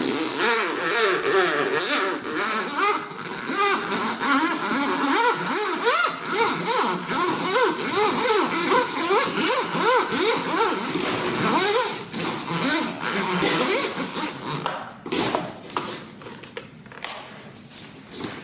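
A ribbed retractable central-vacuum hose (Hide-A-Hose type) being pulled out through its wall pipe and inlet, rasping and squeaking rapidly as the ribs drag against the pipe and the rubber gasket. The squeaking runs for about twelve seconds, then gives way to a few clicks and knocks.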